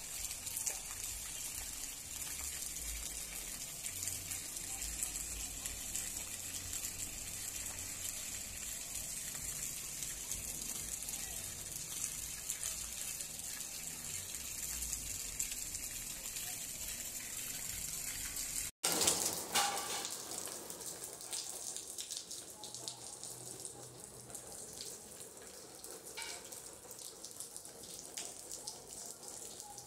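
Steady hiss of heavy rain falling. About 19 seconds in, a hard cut switches to a different, quieter rain recording: a softer patter with scattered drip ticks and a brief louder burst just after the switch.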